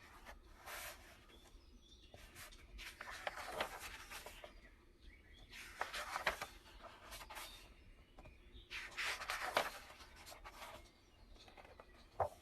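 Packaging of a new leather notebook rustling and crinkling as it is unwrapped by hand, in four bursts of a second or two each, with a sharp tap near the end.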